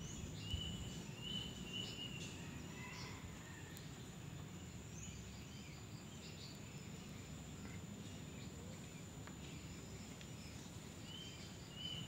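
Faint outdoor ambience: short high bird chirps, several in the first two seconds and again near the end, over a steady thin high-pitched insect hum and low background noise.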